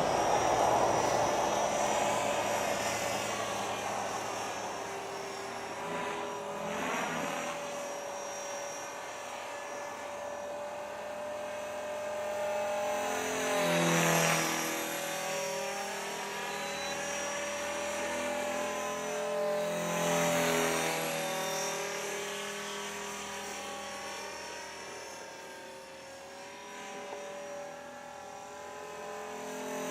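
Blade 400 electric RC helicopter in flight, its motor and rotor giving a steady whine that swells and sweeps in pitch as it passes close, about a third of the way in and again past the middle.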